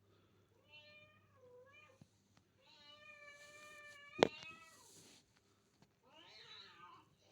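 Hungry stray cats meowing: a short meow about a second in, a long drawn-out meow in the middle, and a rougher call near the end. A single sharp knock sounds during the long meow.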